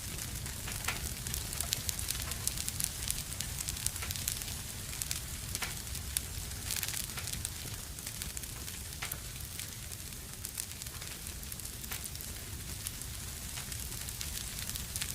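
Wood fire burning in a fireplace: a steady hiss and low rumble with irregular crackles and pops throughout.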